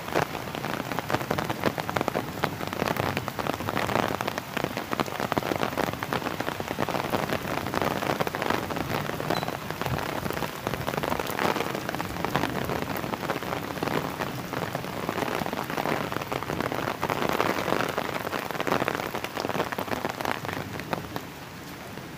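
Steady rain falling, with a dense patter of many separate drops hitting close by.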